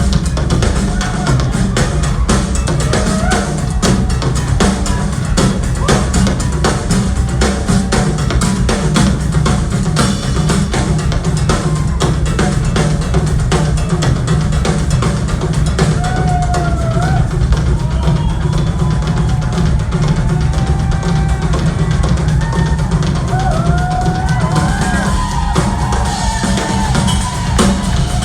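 Live band instrumental with the drum kit to the fore, bass drum and snare pounding steadily. From about halfway through, short lead notes that glide up and down come in over the drums.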